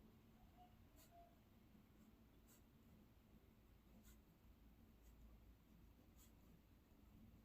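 Near silence with faint scratching of a pen on paper as the essay is handwritten, with light strokes about every second or so.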